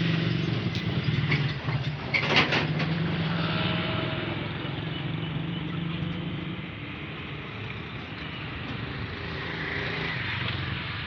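An engine running steadily with a low hum, louder for the first half and then easing off somewhat, with a few sharp clicks about two seconds in.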